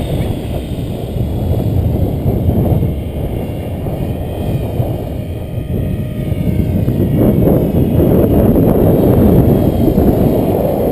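Strong gusting wind buffeting the microphone, a loud irregular rumble that grows louder in the second half.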